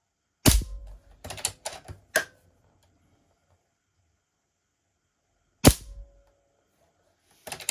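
Two shots from an Airmaks Caiman X PCP air rifle, about five seconds apart, the first followed by a quick run of clicks as the action is cycled for the next pellet, and more clicks near the end. The rifle has just had its regulator vent repaired and is being test-fired.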